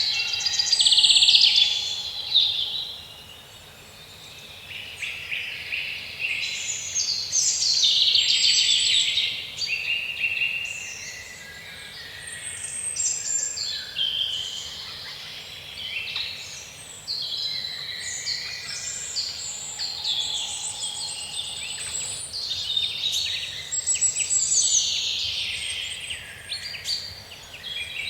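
Several songbirds singing and chirping at once in woodland, with overlapping rapid trills and twittering phrases that rise and fade in waves.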